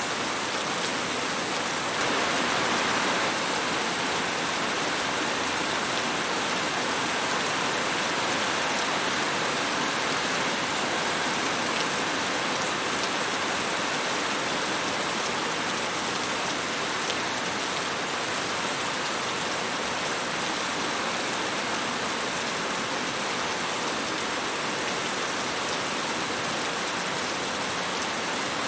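Steady rain falling on a surface: an even hiss of many drops with fine patter, its level hardly changing, slightly heavier for a moment about two seconds in.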